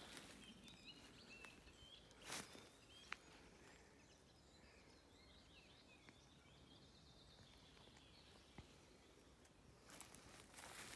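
Near-silent forest ambience with faint, distant bird chirps scattered throughout. A brief rustle about two seconds in and more rustling near the end.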